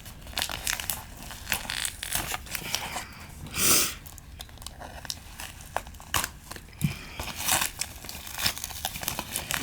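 Card packaging being unwrapped by hand: plastic wrap and tape crinkling and crackling in quick small bursts, with one louder rip a little over three and a half seconds in.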